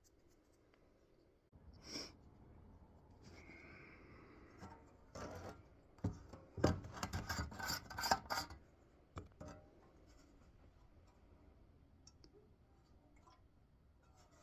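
Hand scrubbing and rubbing on a small engine part being cleaned, with light clicks and knocks as it is handled. The rubbing and clicks come thickest in a flurry about halfway through.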